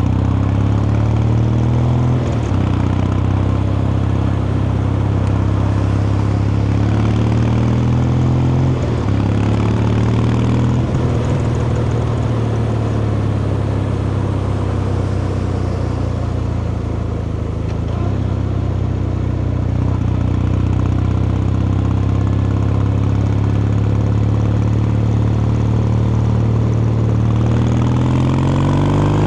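Kawasaki Meguro K3's air-cooled vertical-twin engine and exhaust under way. The engine note climbs and steps down at a couple of gear changes early on, holds fairly steady through the middle, then climbs again near the end.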